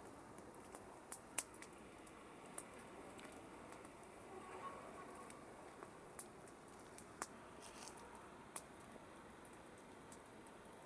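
Campfire crackling: sparse, irregular sharp pops and snaps over a faint steady hiss, the strongest pops about a second and a half in and again near the end.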